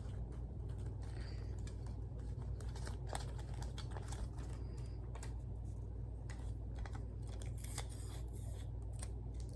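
Hands working sticky tape onto paper: scattered light clicks and crinkles as tape is pulled, torn and pressed down, over a steady low hum.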